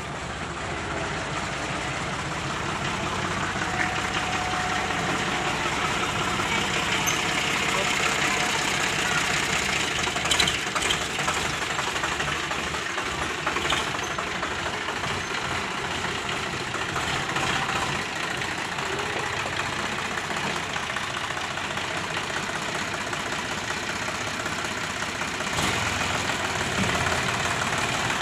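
Sonalika tractor's diesel engine running steadily, with a few sharp knocks about ten seconds in and again near the end.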